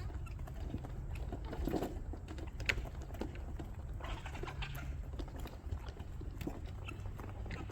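Free-ranging poultry around the feed: short, soft bird calls and scattered sharp taps over a low steady rumble.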